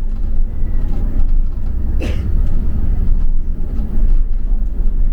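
Low, steady rumble of a London double-decker bus's engine and running gear heard from inside the passenger deck while it drives. A single brief, sharp, higher-pitched sound cuts through about two seconds in.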